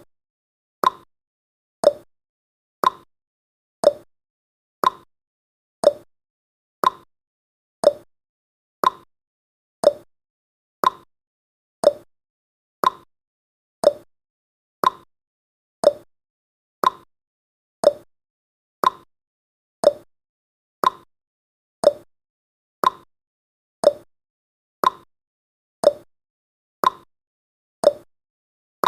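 Clock-style ticking sound effect of a countdown timer: one short, sharp tick about every second, steady and even.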